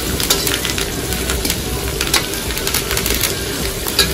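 Mustard seeds, cumin, curry leaves and garlic sizzling in ghee in an iron kadai, stirred with a steel slotted spatula that scrapes and clicks against the pan: a steady sizzle with frequent sharp clicks.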